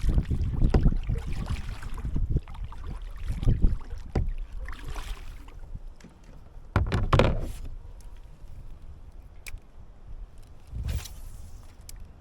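A plastic fishing kayak being handled on the water: a series of dull knocks against the hull and splashes, strongest about seven seconds in, over a low wind rumble on the microphone.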